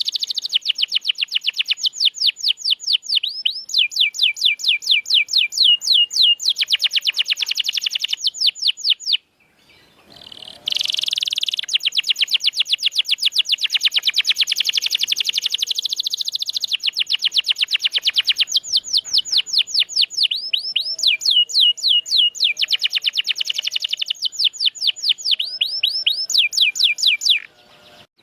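Domestic canary singing long rolling trills of rapid, repeated high notes. It breaks off for about a second and a half about nine seconds in, then picks up again.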